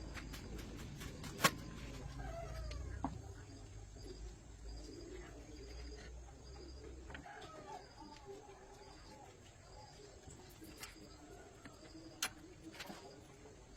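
Faint bird-like calls, wavering up and down, over a low hum that cuts off suddenly about seven seconds in, with a few sharp clicks.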